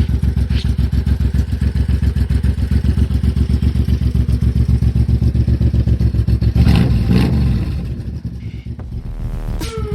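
Suzuki M109R cruiser's V-twin engine running with a fast, steady pulse. It is revved briefly about seven seconds in, then eases back and runs quieter.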